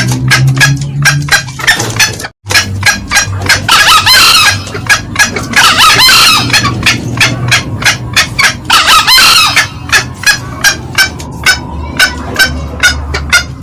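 Green junglefowl lure call: a rapid cackling of short sharp notes about four a second, with three louder longer crowing bursts through the middle. The sound cuts out for a moment a couple of seconds in.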